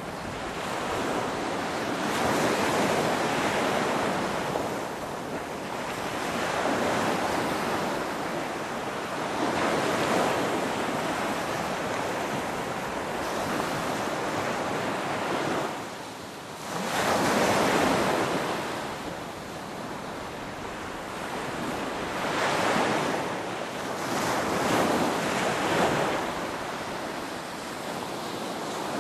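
Ocean waves breaking and washing on a shore, a steady surf hiss that swells and ebbs every few seconds, with one stronger wave surging in after a brief lull about two-thirds of the way through. Wind noise runs under it.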